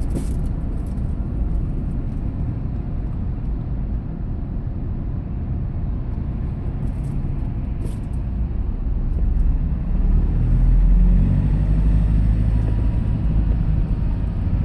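A vehicle driving, heard from inside the cabin: a steady low engine and road rumble that grows louder about ten seconds in as the engine note comes up.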